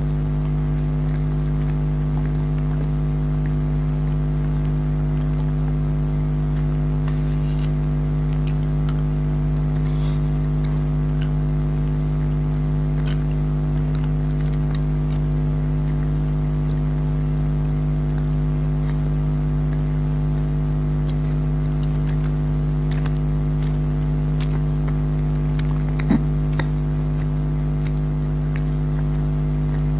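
Jelly candy being bitten and chewed, heard as scattered faint wet clicks with one sharper click about 26 seconds in, over a loud steady low hum of several fixed tones.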